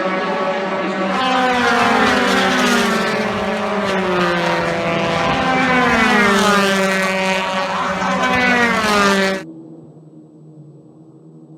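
Race car engines at full throttle, the pitch climbing and dropping again and again as the revs rise and fall. About nine seconds in the sound cuts off abruptly, leaving a much quieter, steady engine hum.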